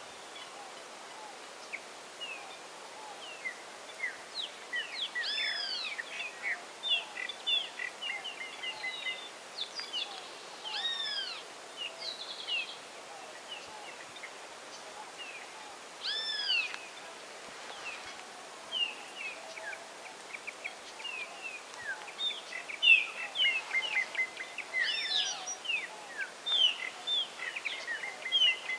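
Several wild birds calling and chirping: a steady stream of short chirps, broken every few seconds by a louder arching call that rises and falls, heard about four times. A faint steady outdoor hiss lies underneath.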